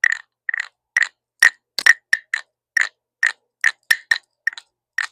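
Small wooden frog guiro played by scraping its stick along the ridged back, a steady run of short scraped strokes at about two to three a second.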